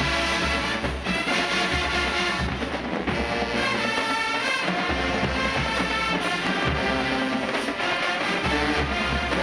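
Marching band playing, brass over drums.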